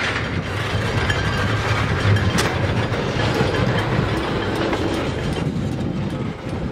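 Freight train of tank cars rolling past, steel wheels rumbling on the rails and clacking over the joints, with a sharp click now and then.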